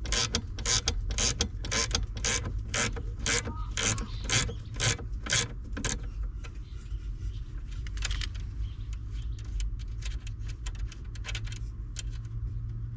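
Hand ratchet clicking in quick, regular strokes, about three a second, as a fastener is removed from a Hyundai Sonata steering column, easing into scattered clicks about six seconds in. A steady low hum runs underneath.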